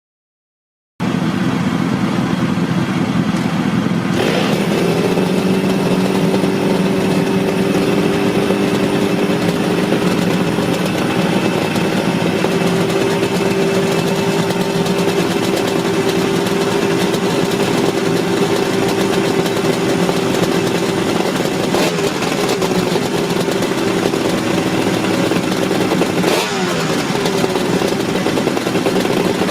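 Suzuki RG500 Gamma's square-four two-stroke engine running through Nikkon aftermarket expansion-chamber exhausts, idling steadily just after start-up. The engine note steps up slightly about four seconds in and then holds, with two brief throttle blips near the end.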